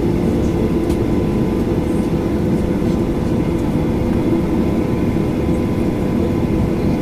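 Steady cabin noise inside a Boeing 737-800 on the ground: a low rumble with a constant hum running underneath.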